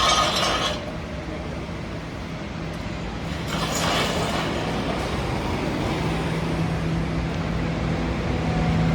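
Busy downtown street traffic at an intersection, with a brief rush of noise about four seconds in. A steady low engine hum joins about six seconds in.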